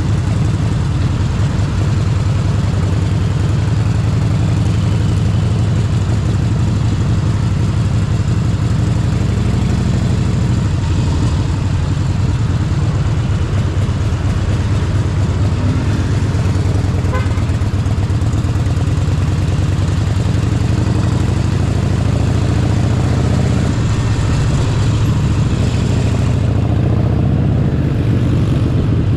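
Harley-Davidson Forty-Eight Sportster 1200's air-cooled V-twin engine running steadily under the rider, its low exhaust note pulsing evenly, with road and wind noise above it.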